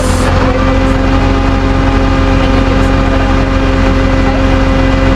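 Vehicle engine running at a steady speed: a constant deep drone with an even hum above it, unchanging throughout.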